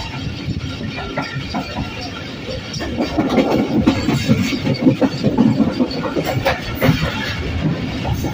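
Train running at speed, heard from the cab of a Pakistan Railways GEU-40 diesel-electric locomotive hauling a goods train. The wheels clatter and rattle over the track, and it gets louder about three seconds in.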